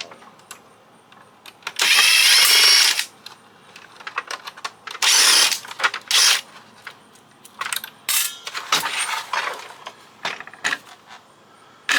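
A power screwdriver running in two short bursts while backing screws out of a plastic fax machine case, followed by a run of clicks and knocks as screws and plastic parts are handled.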